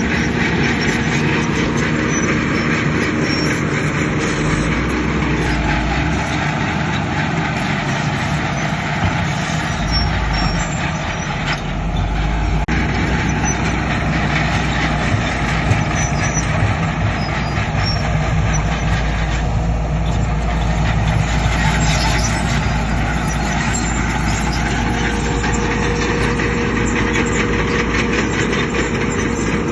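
Diesel engines of heavy earthmoving machinery, a bulldozer and dump trucks, running steadily at work. The low engine tone deepens and strengthens about a third of the way through.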